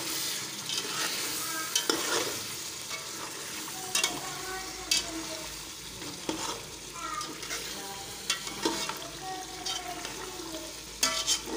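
Chicken and potato masala frying in a metal pot, sizzling steadily while a spoon stirs through it, with a few sharp clinks of the spoon against the pot. This is the bhuna stage, the masala being fried down.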